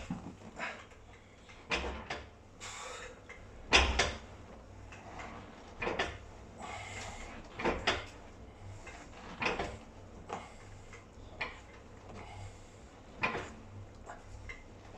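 The weight stack of a pin-loaded adduction machine clanking on each rep, a metallic knock roughly every two seconds, eight or so times.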